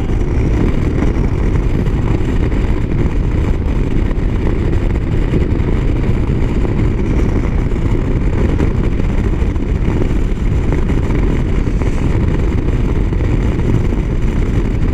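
Motorcycle riding at highway speed: steady wind rush over the rider's microphone, with the engine running underneath.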